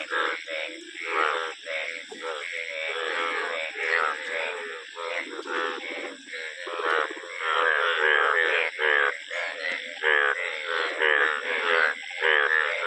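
A chorus of frogs croaking, many calls overlapping without a break.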